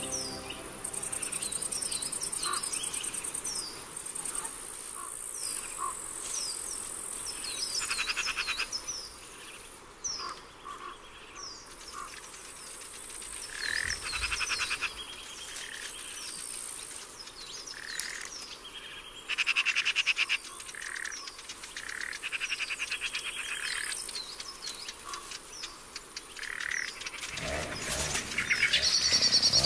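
Forest ambience: many short high bird chirps and calls over steady insect buzzing and trilling. Right at the end a small engine starts and revs up, rising in pitch.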